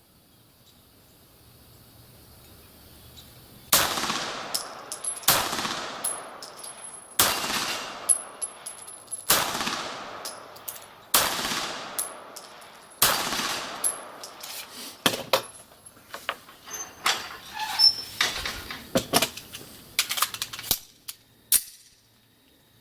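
Beretta 92G Elite Compact 9 mm pistol firing single shots, about one every two seconds, each with a long echoing tail. Over the last several seconds the shots and sharp impacts come faster and closer together.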